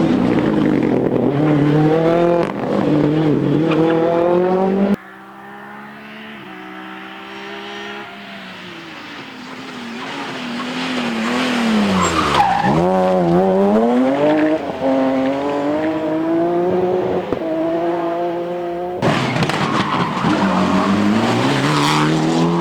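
Rally car engines at full throttle in a run of cut-together clips. An engine climbs in pitch through the gears with drops at each shift. About halfway a car approaches and passes with a sudden fall in pitch, then another car accelerates hard.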